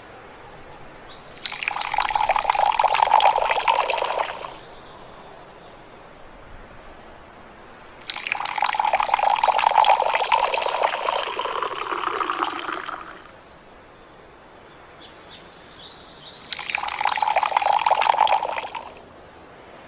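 Water running or pouring in three separate bursts, each a few seconds long, starting and stopping fairly abruptly.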